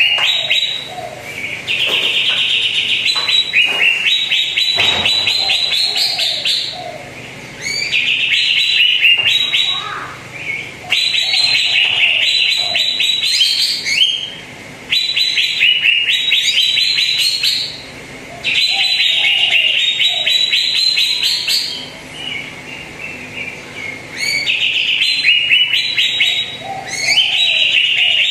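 Green leafbird (cucak ijo) singing: rapid, high trilled phrases of one to three seconds each, repeated over and over with short pauses between them.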